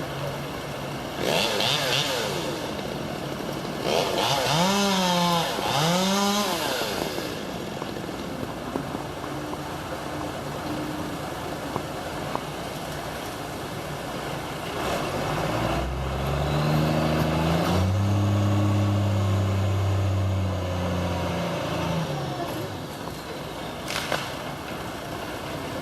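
Engine sounds, most likely a chainsaw: its pitch dips and climbs back twice about four to six seconds in. Later a deeper, louder engine swells up and fades away over several seconds.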